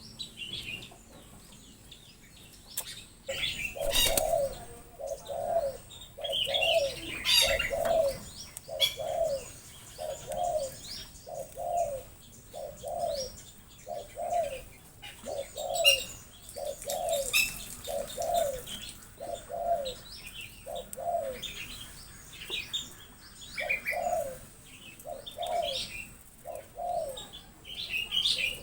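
A bird giving a long series of low hooting notes, about one or two a second, that stops for a few seconds near the end and then resumes, with higher chirps from other birds.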